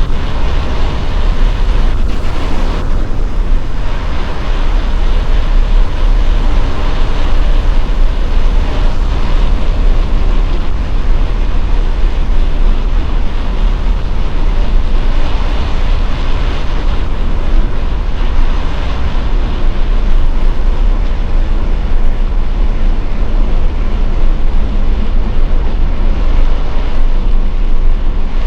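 Steady, loud rush of wind on an Insta360 X5 camera's microphones while cycling at speed, heaviest in the low rumble, heard with the camera's noise suppression switched on.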